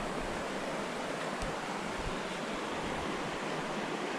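Steady rushing of a small brook's flowing water.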